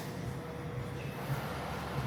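A steady low rumble with a faint hum, like a running engine.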